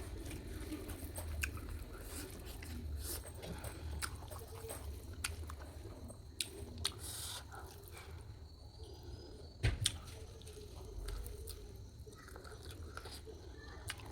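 A person chewing and eating masala chicken curry close to the microphone, with irregular mouth clicks and smacks.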